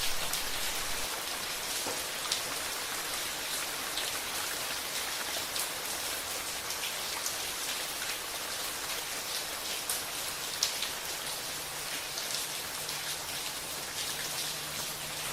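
Steady rain with many separate drops pattering on a surface, scattered sharp drop hits over an even hiss.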